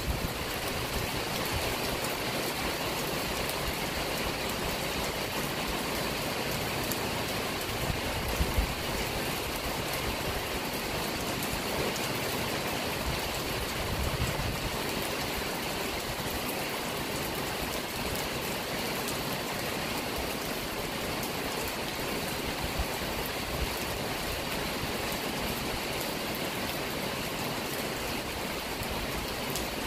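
Steady rain falling on trees and garden plants, an even dense hiss, with two brief low thuds about eight seconds in.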